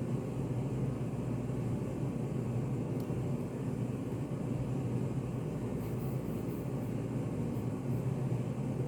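Study café room ambience: a steady low hum, with a few faint small clicks and ticks about three seconds in and again around six to eight seconds.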